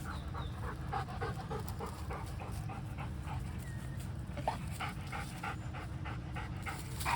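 A dog panting quickly, about three to four breaths a second, over a steady low rumble.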